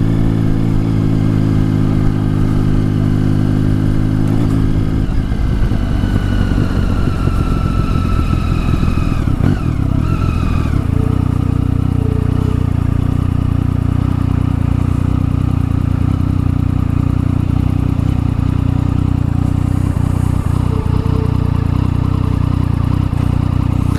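Triumph Tiger 1050 Sport's three-cylinder engine running under way through its new exhaust, the note holding steady, changing about five seconds in, then settling to a steady note again from about halfway.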